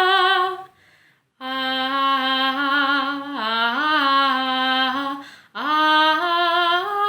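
A woman singing unaccompanied, long held notes on an open 'ah' vowel with a slight wavering. After a short breath about a second in, one long note dips and rises in pitch in the middle, then after another brief breath a second phrase steps upward in pitch.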